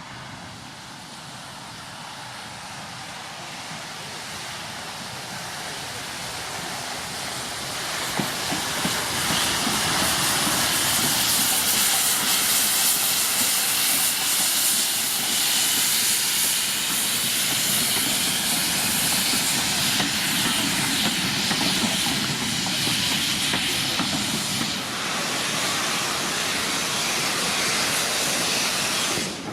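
Steam locomotive hissing loudly as steam escapes. The hiss grows louder over the first ten seconds, then holds steady.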